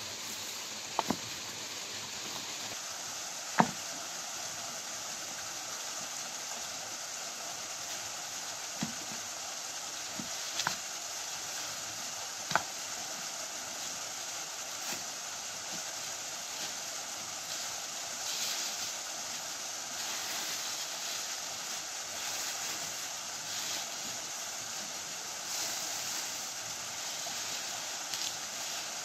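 Waterfall water rushing steadily over rocks, with several sharp knocks in the first half.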